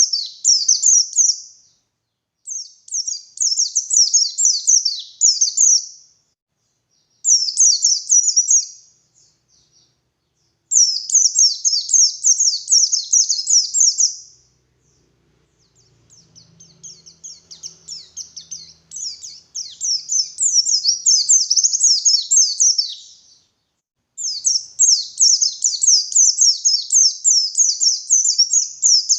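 White-eye (pleci) singing in a run of fast, high, twittering phrases, each a few seconds long with brief pauses between; one phrase about halfway through starts softer and builds up.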